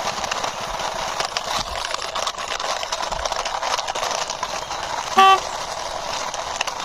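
Plastic wheels of a toy scooter rolling and rattling across a floor as it is pushed by hand, with one short horn toot about five seconds in.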